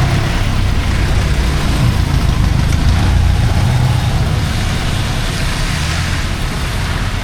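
Road traffic: heavy vehicle engines running close by with a deep, steady rumble, over an even hiss of heavy rain.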